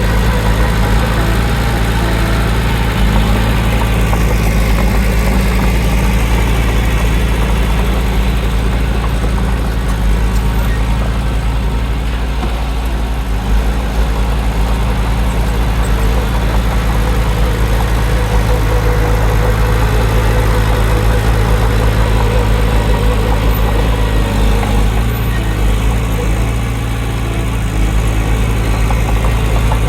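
Diesel engine of a heavy earthmoving machine running steadily with a deep, even drone.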